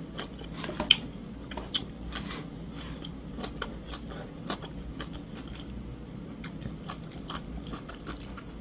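A person chewing a mouthful of meat and kimchi: small wet mouth clicks and crunches, thick in the first couple of seconds, then sparser.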